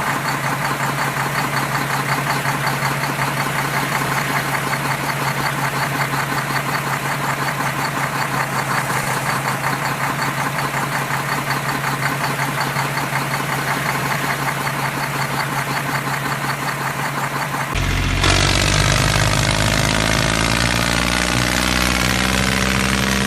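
An engine running steadily with a fast, even chugging rhythm. About eighteen seconds in it gives way abruptly to a deeper, fuller engine sound whose pitch slowly rises.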